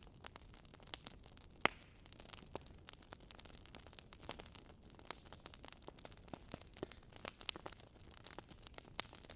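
Burning firewood crackling: irregular sharp pops and snaps over a soft hiss.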